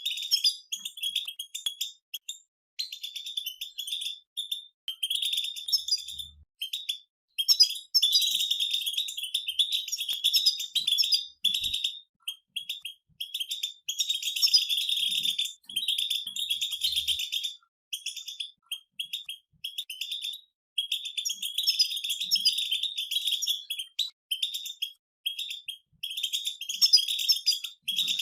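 Several European goldfinches twittering together in fast, scratchy chattering phrases, each lasting a second or more and broken by short pauses.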